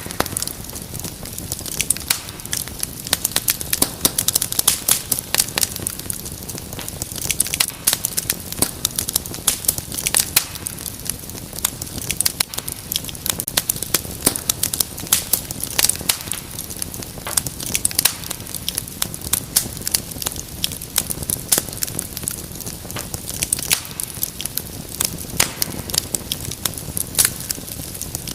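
Wood fire in a fireplace crackling: many irregular sharp pops and snaps over a soft steady hiss of burning.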